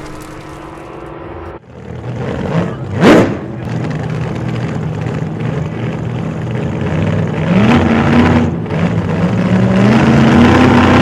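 Vehicle engine accelerating, with a loud brief rush about three seconds in and the engine pitch climbing at about seven and a half seconds and again near the end.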